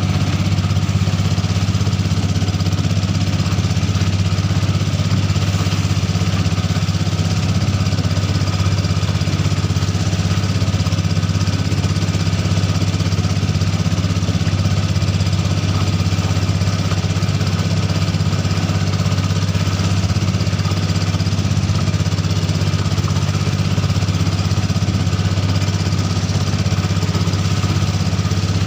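6.5 hp Honda single-cylinder four-stroke engine of a ketinting longtail boat, running steadily at constant speed with a deep, even hum.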